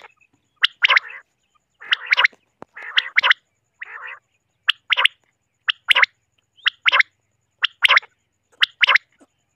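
Common quail calling: the male's three-note 'wet-my-lips' call, a short note then a louder quick pair, repeated about once a second, with a few softer raspy notes in the first half.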